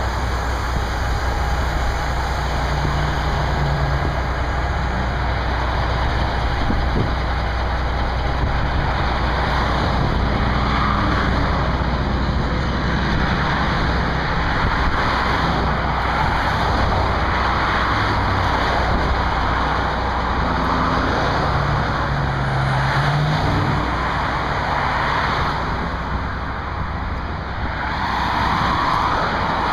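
Fire engine's diesel engine running under way, with steady road and wind noise. The engine pitch steps up and down several times as the truck accelerates and shifts.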